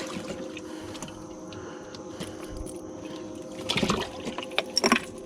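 Water trickling and splashing over a steady hum, with a few sharper splashes about four and five seconds in.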